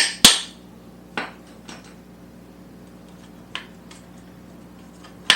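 Sharp metallic taps as the KZ440 engine is tapped from behind to shift it into its frame mounts. Two loud ones at the start, a few lighter ones through the middle, and another sharp one at the end.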